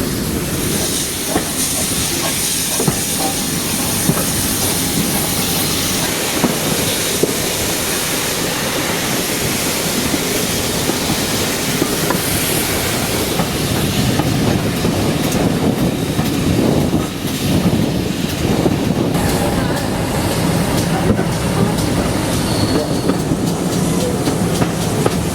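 A train running on the rails, a steady rumble with the wheels clicking over rail joints and some wheel squeal.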